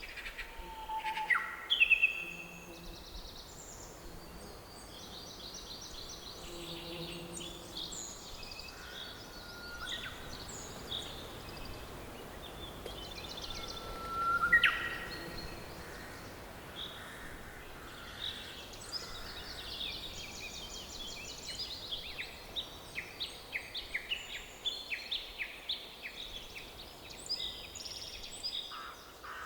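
Forest ambience of several birds singing and calling over a faint steady hiss, with louder calls about two seconds in and halfway through, and a fast run of rapidly repeated chirps in the last third.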